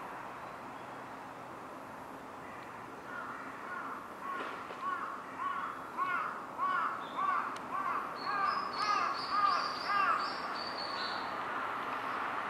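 Birds calling: a run of short, repeated calls, about two a second, starts about three seconds in, and a higher-pitched series of calls joins for a few seconds near the end, over steady background noise.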